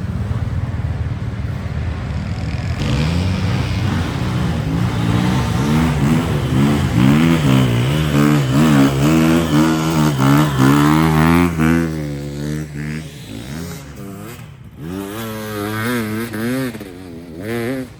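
Motocross bikes with their engines revving, the pitch wavering up and down as the throttle opens and closes. The engines grow louder to a peak in the middle, then fade, with another brief rise near the end.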